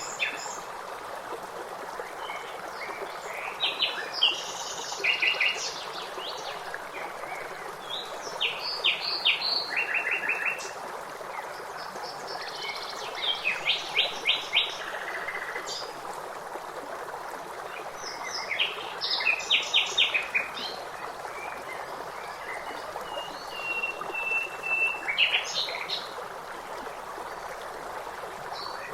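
Songbirds singing in bursts of rapid chirps and trills every few seconds over a steady rush of flowing water, with one longer held whistled note a little before the end.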